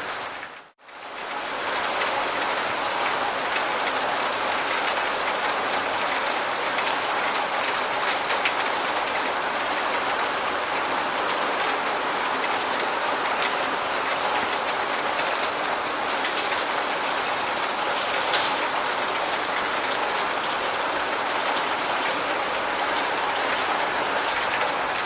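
Steady, dense rain with many fine drop ticks. It cuts out briefly just under a second in, then resumes.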